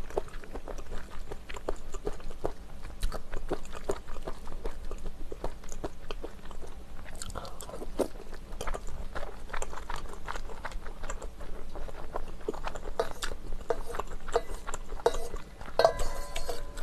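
Close-miked chewing of ramen with dumplings and wood ear mushroom: a steady run of small wet clicks and crunches. A brief ringing tone near the end.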